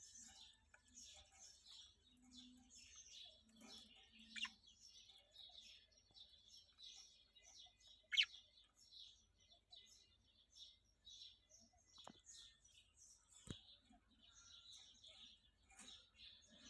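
Faint, continuous chirping and twittering of small birds, with a couple of louder calls that sweep downward in pitch about four and eight seconds in.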